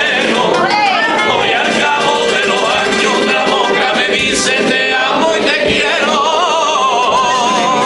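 Carnival-style pasodoble sung by a vocal group, held notes wavering with vibrato over steady musical accompaniment.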